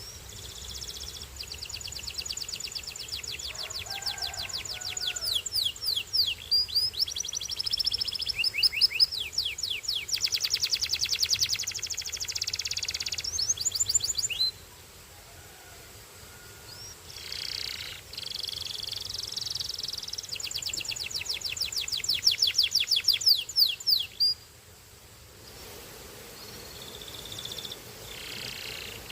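A canary singing two long song phrases made of fast, rapidly repeated high trills and rolls. The first lasts about thirteen seconds and the second about six, with a short pause between them.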